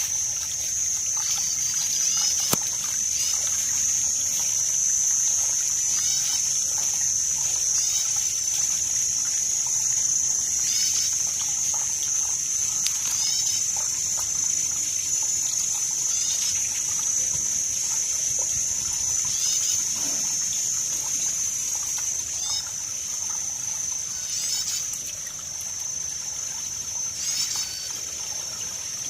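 Water trickling and splashing steadily. Over it runs a steady high-pitched drone, with short high chirps repeating every second or two.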